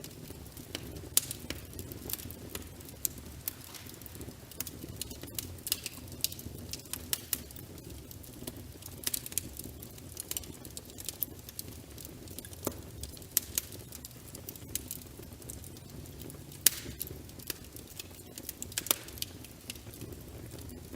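Wood fire crackling in a fireplace: irregular sharp pops and snaps, a few louder ones (a strong pop about 17 seconds in), over a steady low rumble of the flames.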